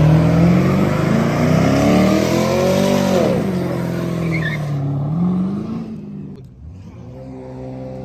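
Car engine revving hard: its pitch climbs steeply, holds high, drops about three seconds in, rises briefly again around five seconds, then settles into a lower, steadier drone near the end.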